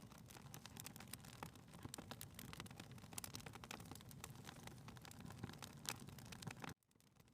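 Faint crackling of a wood fire in a fireplace: irregular small pops and snaps over a low, even rumble. It drops out suddenly near the end, then comes back softly.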